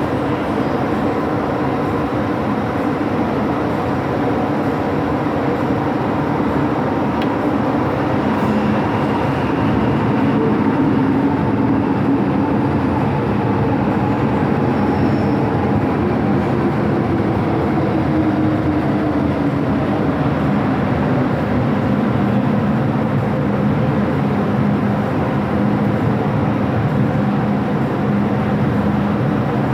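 MTR M-Train electric multiple unit running: a steady rumble of wheels and motors, with a whining tone that falls in pitch about halfway through.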